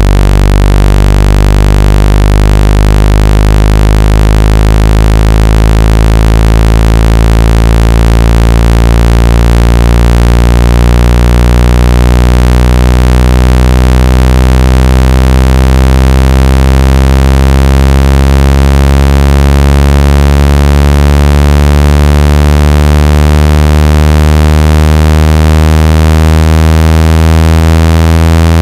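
Loud synthetic buzzing tone with many harmonics, its low pitch slowly rising. It is a speaker water-ejection tone, played loud to vibrate trapped water out of a phone or earphone speaker.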